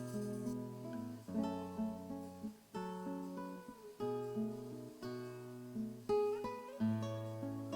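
Background music: acoustic guitar playing a slow, gentle melody of plucked notes and chords.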